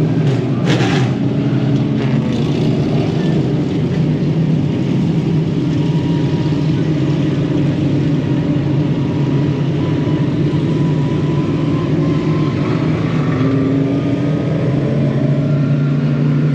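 Modified dirt-track race car engine running at a steady speed, with a slight rise in pitch near the end.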